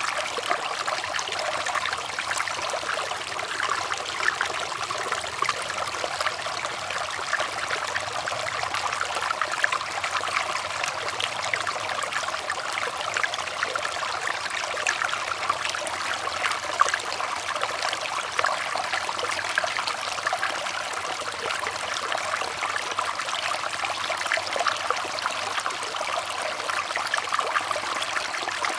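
Water running and trickling steadily, a stream-like flow with fine splashing.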